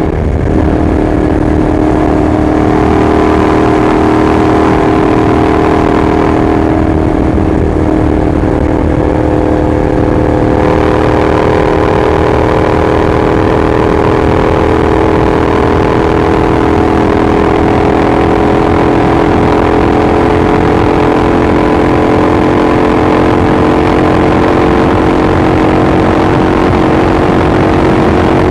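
Honda NC700S parallel-twin engine running through a Leo Vince carbon aftermarket exhaust, a loud, steady drone whose pitch barely changes.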